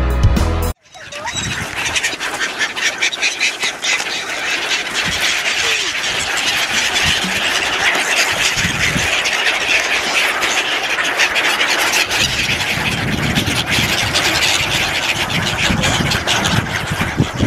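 Music that cuts off abruptly under a second in, followed by a dense flock of birds calling and chattering together.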